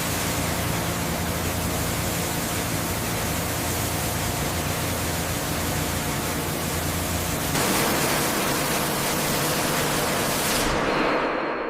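High-pressure water jet blasting at full pressure: a loud, steady hiss of spray over the hum of its pump. About seven and a half seconds in, the hum drops out and the hiss gets slightly louder, then it fades away near the end.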